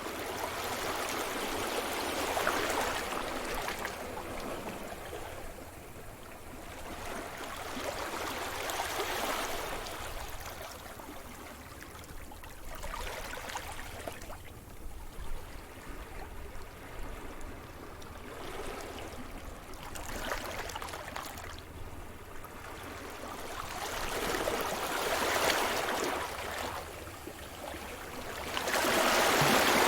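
Sea surf: waves breaking and washing over the shore, a rushing hiss that swells and fades every four to seven seconds, with the biggest swell near the end.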